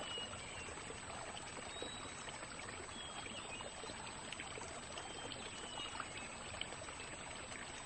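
Faint, steady trickle and wash of shallow marsh water, with a few faint, short, high chirps scattered through it.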